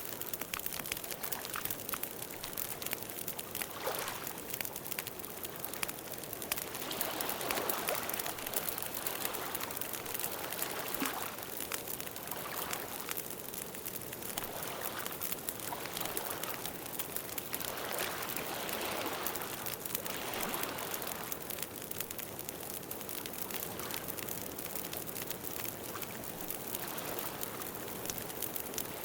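Campfire burning: dense, steady crackling and popping of wood over a soft hiss, with gentle swells every couple of seconds.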